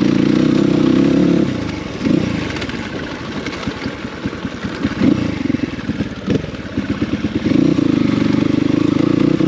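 Dirt bike engine running steadily under way, easing off about a second and a half in. There is then an uneven stretch of several seconds with many short rattles and knocks. The engine pulls steadily again for the last couple of seconds.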